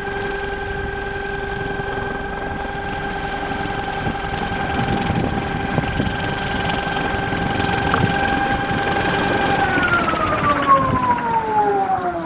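36N48P brushless electric motor, rated 5 kW at 100 V, running unloaded on 25 V with a steady whine in several pitches. About nine and a half seconds in the whine starts falling in pitch as the motor spins down towards a stop.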